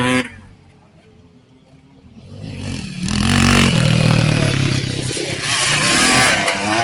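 Vintage motocross motorcycles racing past close by, engines revving hard under acceleration. The engine noise swells in from about two seconds in, rises in pitch and stays loud to the end.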